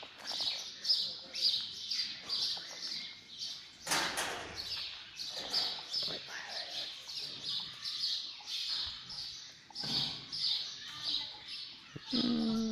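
Small birds chirping in a steady run of short high peeps, about two to three a second. Near the end comes a louder, short, low call that slides down in pitch.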